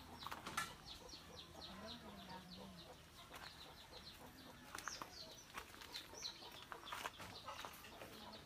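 Faint bird chirping: a long run of short, high, falling chirps, several a second, with a few sharp clicks in between.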